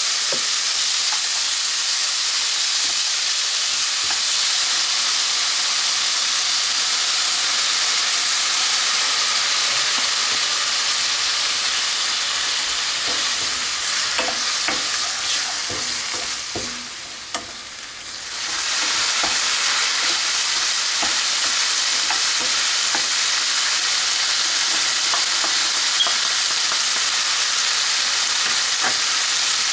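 Food sizzling as it fries in a hot pan while being stirred, with short clicks and scrapes from the utensil against the pan. The sizzle dies down for a couple of seconds about halfway through, then comes back.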